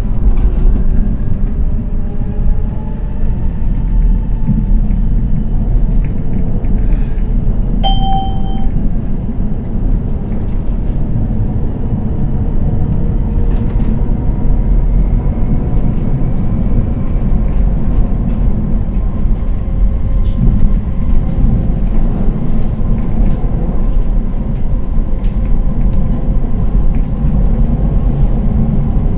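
Electric tram running on rails: a steady rumble with the motors' whine gliding up and down, and a short tone about eight seconds in.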